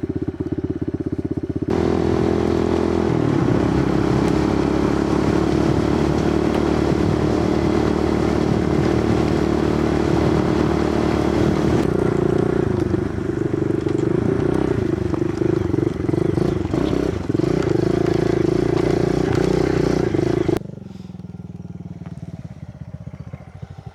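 Kawasaki KLX110 pit bike's small single-cylinder four-stroke engine running under way, with wind rush over it. The engine note shifts about halfway through, and near the end the sound drops suddenly to a much quieter, lower engine running.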